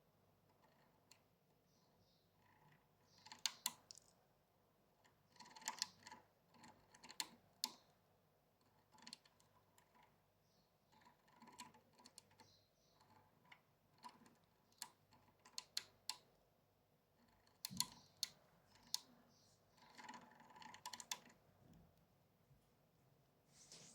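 Goldfinch × canary hybrid pecking at apple and fig seeds: quiet clusters of small clicks and crunches from its beak, coming in bouts every second or few, with short pauses between.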